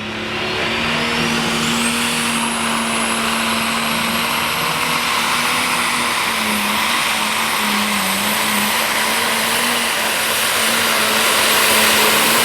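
Turbocharged diesel pro stock pulling tractor running flat out as it pulls the sled. It is loud and steady, with a high turbocharger whine that climbs over the first two seconds and then holds.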